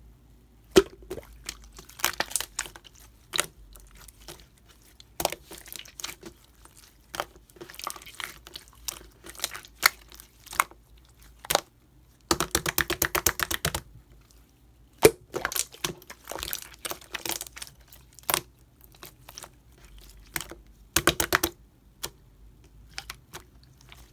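Mixed pink and purple slime worked by hand, making scattered sharp pops and runs of rapid crackling clicks, the longest run about halfway through.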